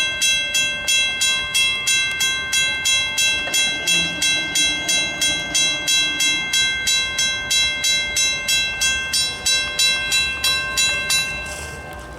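Railroad grade-crossing bell ringing with even strikes about three a second. It stops near the end, about eleven seconds in.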